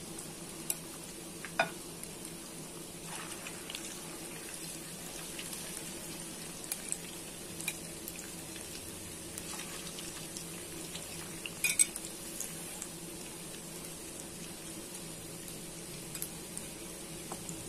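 Egg-coated tofu pieces frying in hot oil in a wok: a steady sizzle with scattered sharp pops and crackles, the loudest cluster about two-thirds of the way in.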